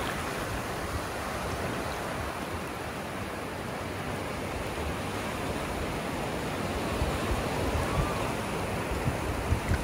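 Ocean surf washing onto a sandy beach: a steady, even rush of breaking waves that swells slightly toward the end.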